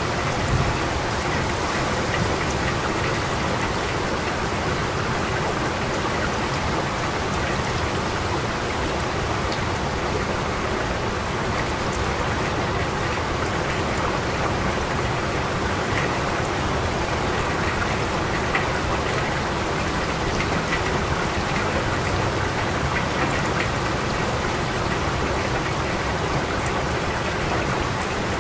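Steady rain falling, with scattered individual drops ticking over the even hiss.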